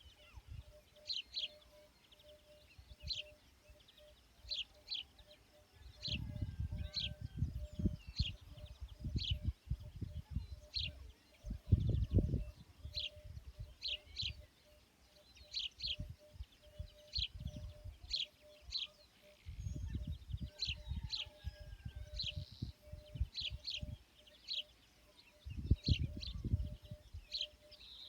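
A small bird repeating short, high chirps about once a second, often in quick pairs, over a faint pulsing note. Intermittent low rumbles come and go, the loudest about midway.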